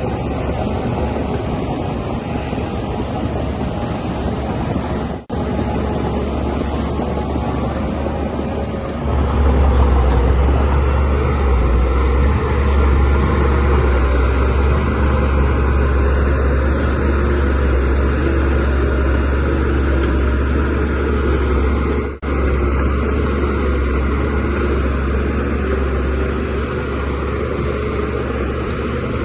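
Shantui DH17C3Pro crawler bulldozer's diesel engine running steadily, with a deep rumble that grows louder about nine seconds in and eases back near the end. The sound drops out for a split second twice.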